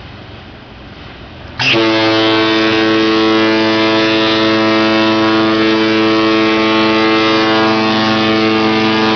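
A ship's horn sounding one long, deep, steady blast that starts suddenly about a second and a half in.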